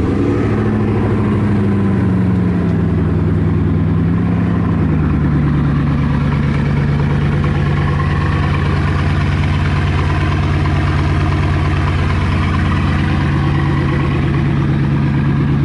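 Bugatti Chiron's quad-turbo W16 engine idling just after start-up. The fast idle drops in pitch over the first five seconds or so, then settles into a steady idle.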